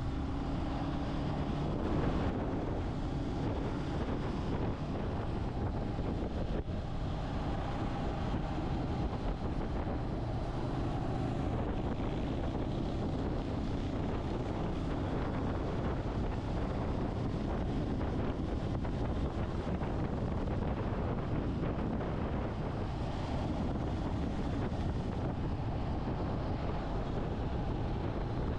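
Wind buffeting the microphone on a moving motorcycle, with the engine running steadily underneath at an even speed.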